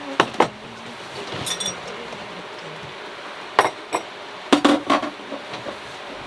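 Dishes and utensils knocking and clinking: two sharp knocks at the start, a short ringing clink about a second and a half in, then a cluster of knocks from about three and a half to five seconds.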